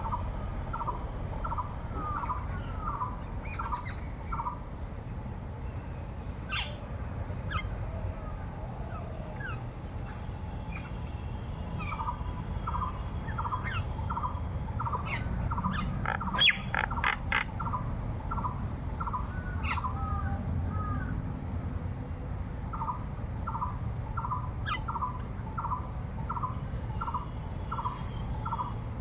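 Birds calling outdoors: one bird repeats a short note at about two or three a second in long runs, with scattered higher chirps from others and a brief cluster of sharp clicks about halfway through. A steady high-pitched drone, like insects, runs underneath.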